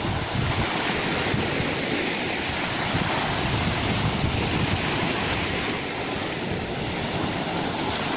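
Sea waves washing in surf, a steady rushing noise that swells and eases slightly.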